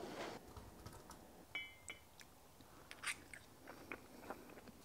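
Faint chewing of a dumpling: a few soft mouth clicks and smacks scattered through the second half, otherwise near silence.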